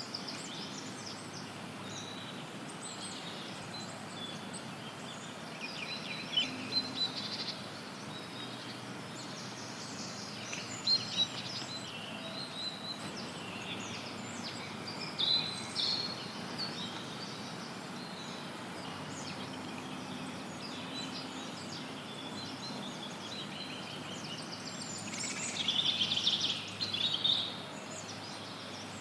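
Several wild birds singing and chirping in short scattered phrases over a steady hiss of added white noise, with a louder burst of song near the end.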